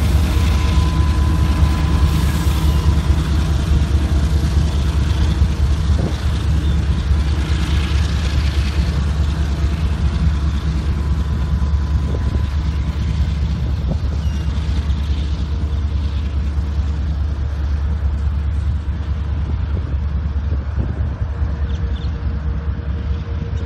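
Union Pacific diesel locomotives and their freight train rumbling as they move away, the sound slowly fading, with wind buffeting the microphone.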